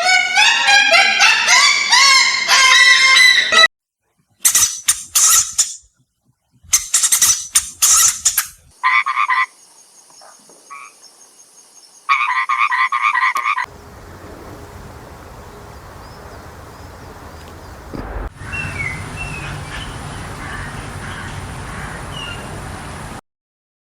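Animal calls in a series of abrupt cuts: first a dense run of rapid chirping calls, then bursts of fast pulsed croaking calls with silent gaps, then a steady outdoor hiss with faint scattered chirps that cuts off suddenly near the end.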